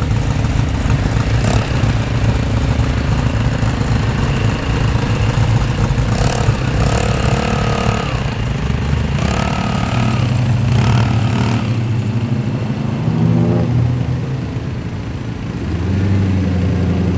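Performance car exhausts rumbling loudly as cars drive slowly past, with the revs rising and falling a few times midway, and another car's deep drone coming in near the end.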